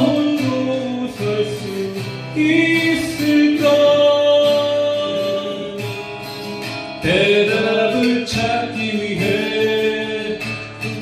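Singing of a slow Korean folk-style song to acoustic guitar, with long held notes over the plucked accompaniment.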